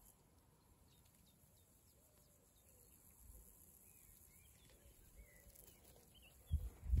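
Faint birdsong of scattered short chirps and twittering over a steady high hiss of meadow insects. A few low thuds come near the end.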